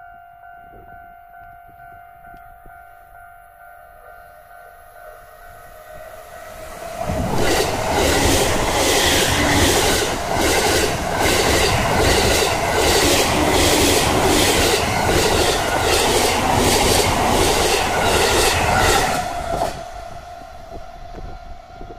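A JR East suburban electric multiple unit with double-deck cars arrives about seven seconds in and passes close by at speed for about twelve seconds. Its wheels clack over the rail joints in a fast, even rhythm. A steady high tone is heard before the train arrives and again after it has passed.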